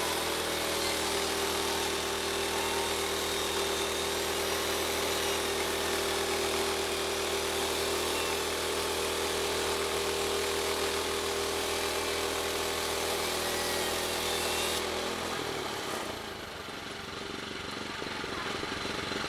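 Woodland Mills portable bandsaw mill's gas engine running steadily at high speed as the blade saws through wood. About fifteen seconds in the engine is throttled down and the sound drops to a quieter, lower running.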